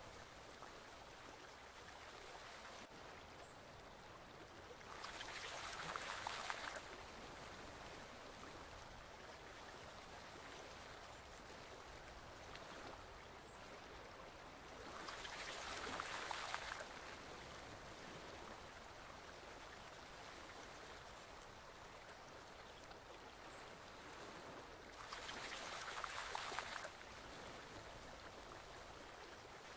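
A small forest stream running steadily, with a louder rush of water about every ten seconds, three times, each lasting about two seconds.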